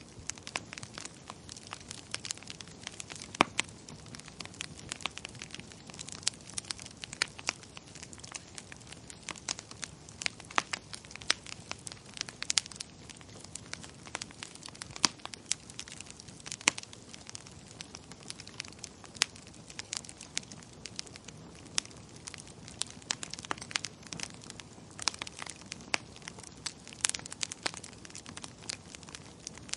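Fire crackling in a fireplace: irregular sharp pops and snaps of varying loudness over a soft, steady background of burning.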